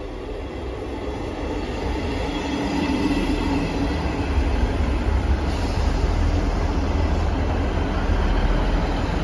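ScotRail Class 158 diesel multiple unit running into the station platform and slowing to stop. Its engines and wheels rumble, growing louder as it draws level and passes close by.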